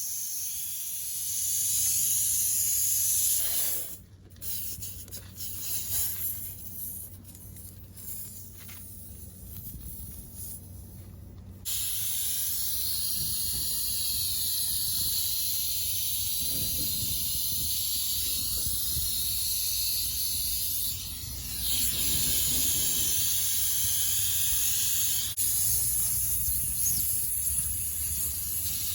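Air hissing steadily out of a punctured semi truck tire through the nail hole, a bad leak. The hiss drops out for several seconds a few seconds in, leaving only a few light knocks, then comes back.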